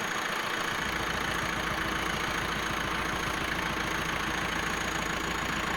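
A vehicle engine idling steadily, with an even low pulsing and no change in speed.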